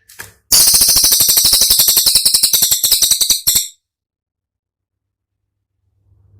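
Cililin songbird giving a 'tembakan', a loud, sharp rattle of rapid high notes, more than a dozen a second, lasting about three seconds before stopping abruptly.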